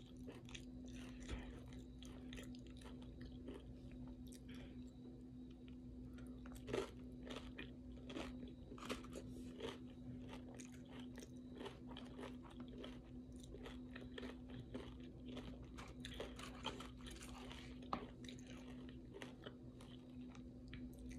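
Close-up chewing and crunching of tortilla chips loaded with taco salad, with many short crisp crunches throughout over a faint steady hum.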